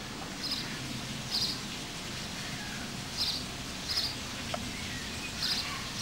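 A small bird chirping: six short, high chirps spaced about a second apart, some in quick pairs, over a steady low background hum.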